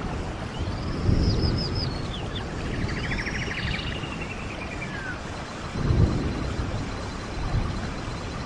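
Stream water running steadily, with surges of low rushing about a second in and again around six seconds. Birds sing over it: a run of arching high calls, a rapid trill near the middle, and a thin steady high note through the second half.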